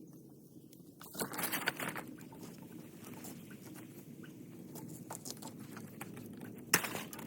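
Rustling and crackling handling noises, loudest in a burst about a second in, with scattered clicks and one sharp click near the end.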